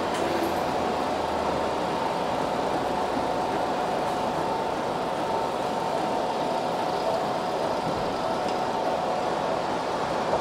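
Seibu 3000 series electric train running, heard from its leading car: a steady rumble and hiss of wheels on rail, with a faint steady whine.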